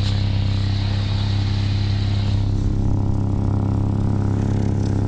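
Honda Civic engine idling steadily, with its tailpipe blocked so the exhaust escapes through a hole in the pipe as a hiss over the engine hum. The hiss is strong at first and fades about two and a half seconds in, while the idle stays even.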